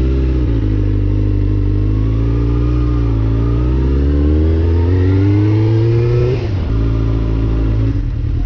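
Suzuki GSX-R sport bike's inline-four engine pulling under throttle, its pitch climbing steadily for several seconds, then dropping sharply as the throttle is closed or a gear changes, after which it runs steady at lower revs.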